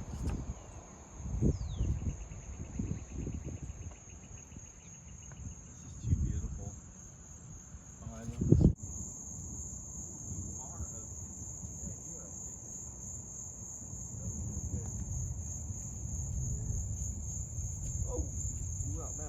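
Steady high-pitched insect buzzing, with gusts of wind rumbling on the microphone and a loud bump a little before halfway, after which the insect buzz is louder.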